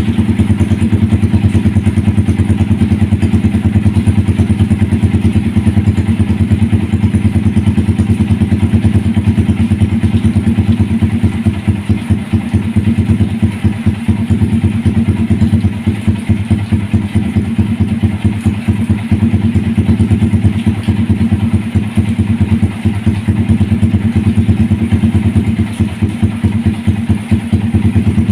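Yamaha R15's single-cylinder engine idling steadily through an aftermarket stainless-steel racing exhaust with a full baffle and a 50 mm inlet: a loud, deep, rapidly pulsing exhaust note that holds the same pitch throughout.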